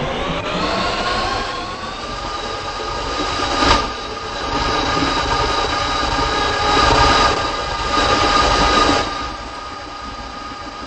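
R160B subway train accelerating away. Its traction motors whine upward in pitch over the first couple of seconds and then settle into a steady whine over wheel-on-rail rumble, with a sharp clank about four seconds in and louder rushes of track noise later on.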